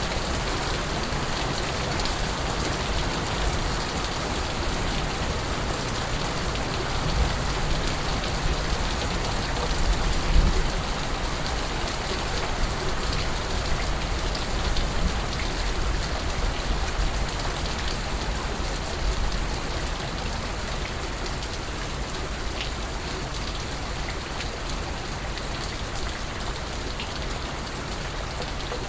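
Steady rain falling on surfaces, with scattered individual drips and a few low thuds about a third of the way in.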